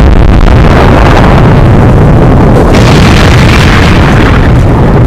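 Very loud explosions rumbling on without a break, with a fresh blast about two and a half seconds in.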